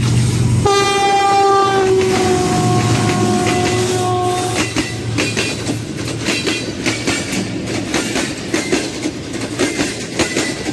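A train horn sounds one long blast of about four seconds over the low rumble of a diesel locomotive, its pitch dropping slightly partway. The rapid clickety-clack of wheels over the rails follows as passenger coaches pass.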